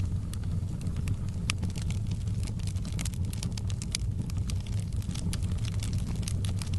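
Wood fire burning in a fireplace: frequent crackles and sharp pops over a steady low roar.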